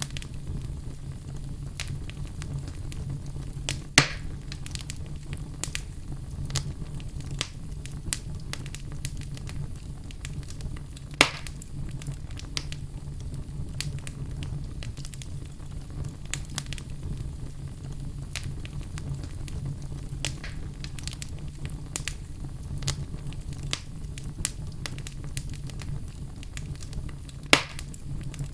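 Wood fire burning in a fireplace: a steady low rumble with constant crackling, and three loud sharp pops from the burning logs, about four seconds in, near the middle and near the end.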